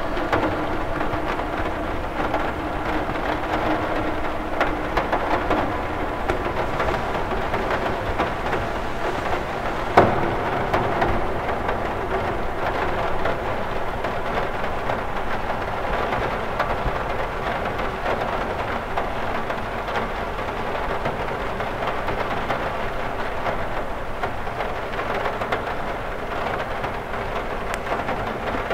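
Rain falling on window glass: a steady patter of many small drop ticks, with one louder tap about ten seconds in.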